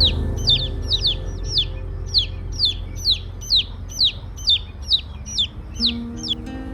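A bird calling over and over, high chirps that each slide downward in pitch, a little over two a second, stopping near the end. A low steady drone runs underneath.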